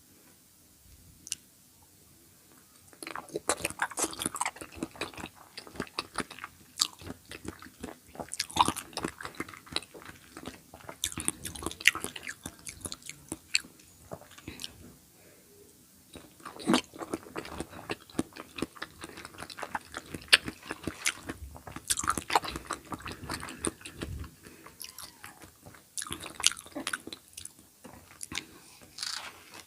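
Close-miked eating: bites followed by wet, clicky chewing that starts about three seconds in and goes on in irregular bursts.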